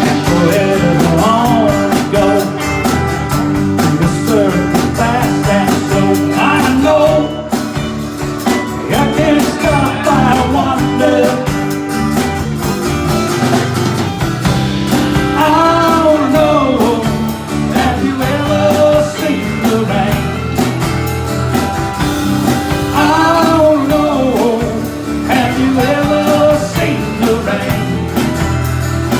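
Live band playing a rock song, with guitar over a steady bass and beat and a wavering, bending melody line on top.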